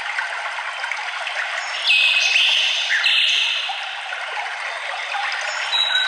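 Songbirds singing over the steady rush of running water: clear whistled notes, a few held for about a second, coming in about two and three seconds in.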